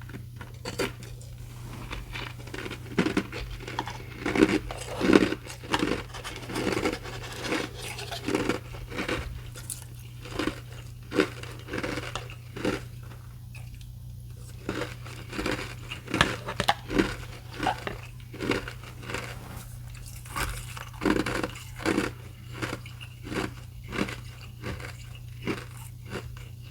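Ice being chewed close to the microphone: a steady run of crunches, about one or two a second, with a couple of short pauses.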